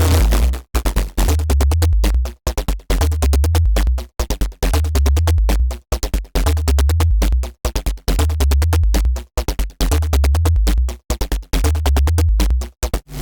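Dirty FM synth bass riff, a Bitwig Polygrid patch, playing in a loop at 140 BPM. Rapid stuttering, chopped notes ride over a heavy sub-bass, and the whole pattern repeats about every 1.7 seconds.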